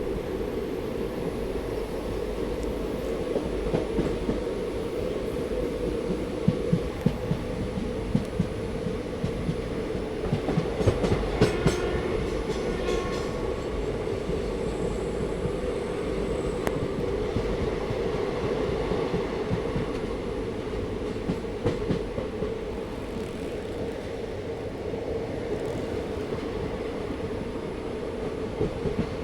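Train running along the track with a steady rumble. Sharp wheel knocks over rail joints cluster about a third of the way in.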